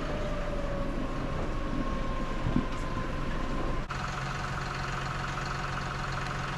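Steady hum of a running motor whose pitch sinks slightly, broken off abruptly about four seconds in by a different steady low hum.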